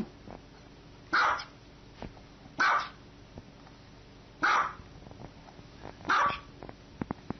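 Small white dog barking: four short, sharp barks spaced about one and a half to two seconds apart.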